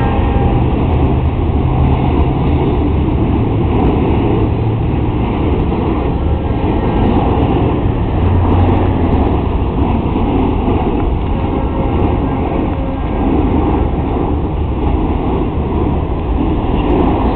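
Freight cars rolling past, a steady noise of steel wheels on the rails.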